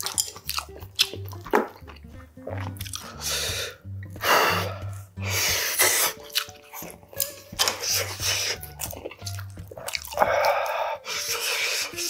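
Wet chewing, lip-smacking and sucking of a man eating grilled sailfin sandfish, picked up close by a clip-on mic, with many short clicks and a few longer rushing sucks. Background music with a steady low beat plays underneath.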